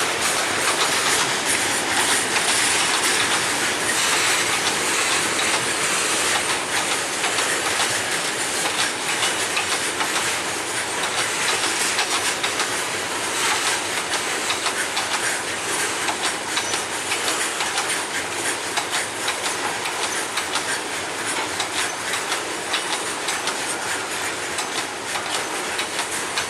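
Indian freight train's wagons rolling past, a dense steady rumble and hiss with the rapid clickety-clack of wheels over rail joints, easing a little toward the end.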